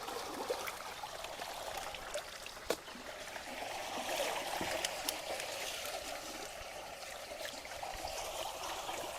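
Ditch water running and trickling through a culvert partly blocked with debris, with scattered sharp clicks and one louder click about three seconds in.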